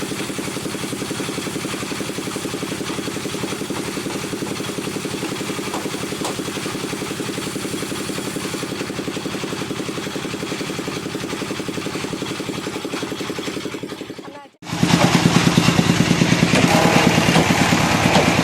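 Wood lathe running with a steady, evenly pulsing hum. It cuts off abruptly about fourteen seconds in and comes back louder.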